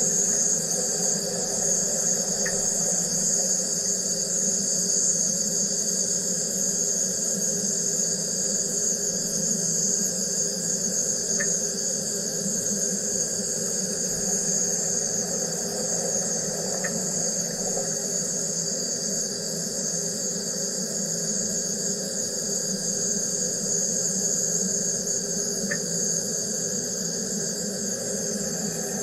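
Wire EDM machine running: a steady high-pitched whine over a low hum, with a few faint ticks several seconds apart.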